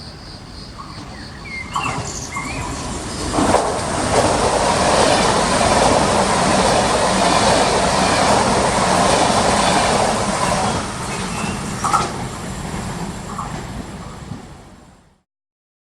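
Trenitalia ETR700 (ex-Fyra V250) electric high-speed train running through a station without stopping: a rushing rumble of wheels and air builds over about two seconds, stays loud for several seconds with a few brief squeals, then eases off. Crickets chirp before the train arrives, and the sound cuts off suddenly near the end.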